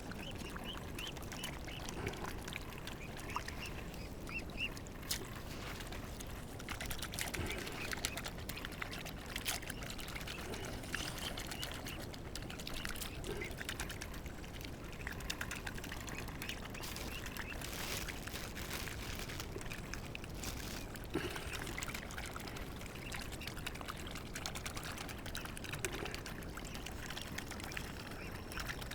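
Faint outdoor water sounds, small pours and trickles of water at the water's edge, with a few short, soft bird calls in the first few seconds and scattered light clicks.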